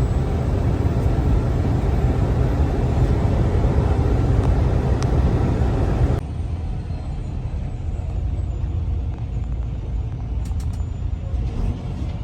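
Steady engine and road rumble of a semi-truck heard from inside the cab while driving on the highway. About six seconds in it changes abruptly to a duller, slightly quieter rumble.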